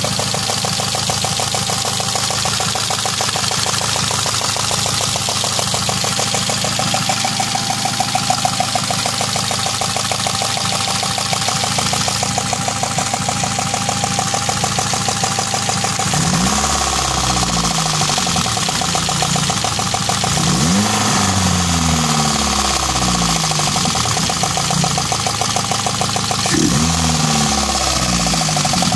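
Citroën Saxo engine idling with a fast rhythmic ticking and a thin steady whine, the suspicious noise the owner is recording. About halfway through, the engine is revved several times, rising sharply and falling back to idle.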